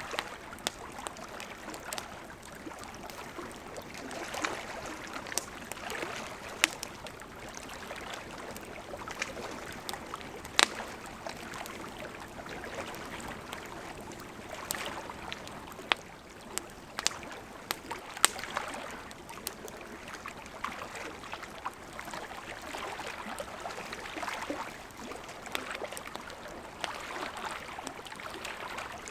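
Wood campfire crackling, with sharp irregular pops, over the steady rush of a gently flowing river.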